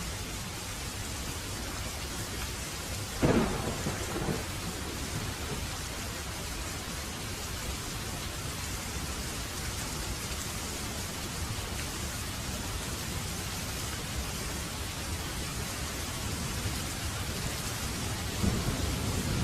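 Heavy rain falling steadily, with a sudden thunderclap about three seconds in that rumbles away, and thunder rumbling again near the end.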